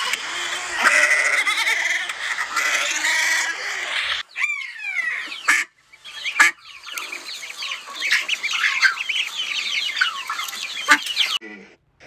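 A goat bleating with a wavering call, then a mallard duckling peeping: many quick, high, falling peeps.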